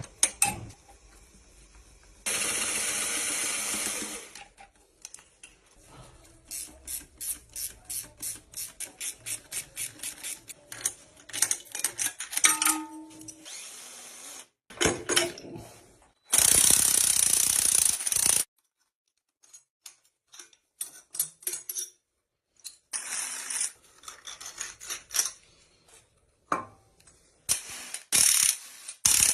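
Ratchet wrench clicking in repeated runs of about two clicks a second, broken twice by a loud burst of even, hissing noise lasting about two seconds.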